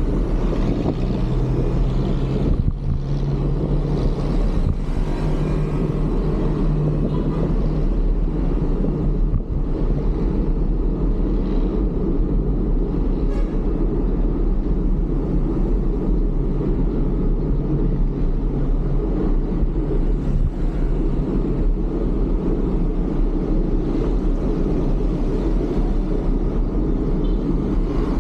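Steady low rumble of wind on the microphone and road and traffic noise while riding a bicycle through city streets.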